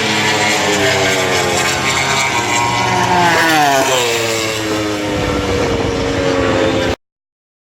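MotoGP race bikes passing at top speed on a long straight, their engines at high revs with the pitch falling as they go by. The sound cuts off abruptly about seven seconds in.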